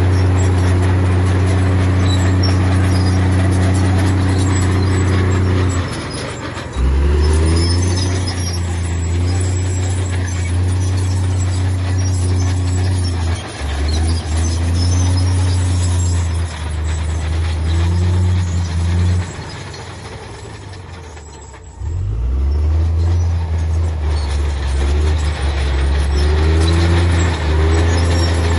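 Heavy earthmoving machine's diesel engine running under load, its pitch shifting as the load changes. It drops off briefly about six seconds in, and again for a couple of seconds around twenty seconds in, each time revving back up with a rising pitch.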